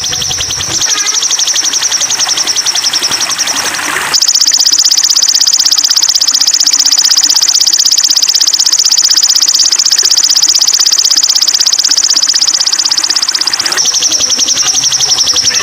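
A masteran trill for training young sogon (sunbird) songbirds: a loud, high, rapidly pulsing buzzy trill. It steps up slightly in pitch about four seconds in and drops back near the end.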